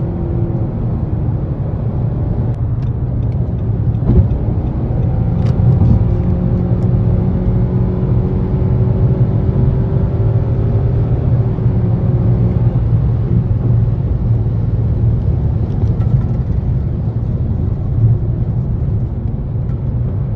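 Steady low rumble of engine and road noise inside a 2017 Nissan Rogue Sport with an MR20DD four-cylinder engine as it is driven, with a faint tone that rises slowly and fades away past the middle.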